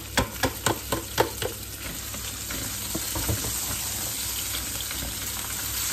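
Minced meat and meatballs sizzling in a hot wok with shallots and garlic, stirred with a spatula. A quick run of sharp clicks in the first second and a half gives way to a steady frying hiss.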